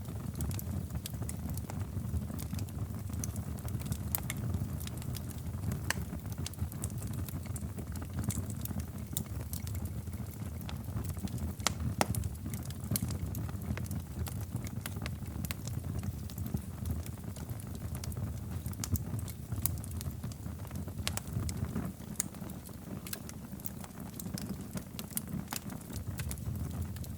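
Wood fire crackling in a fireplace: a steady low rumble of the flames with frequent sharp crackles and pops, a louder pop about halfway through.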